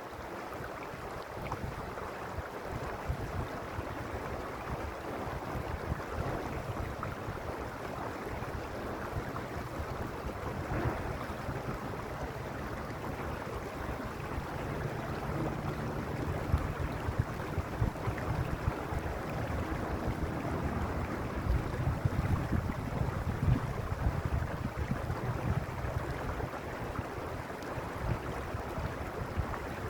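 Mountain stream (arroyo) water rushing steadily, with a low rumble underneath.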